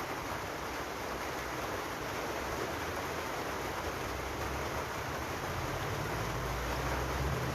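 Steady rain falling, an even hiss with no single drops standing out. A low rumble swells underneath near the end.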